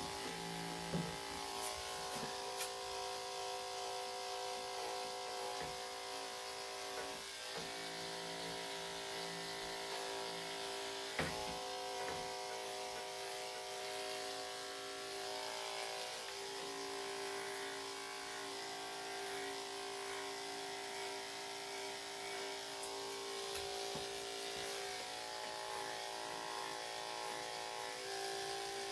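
Electric dog grooming clippers running with a steady hum, with short louder moments now and then as they move through the coat.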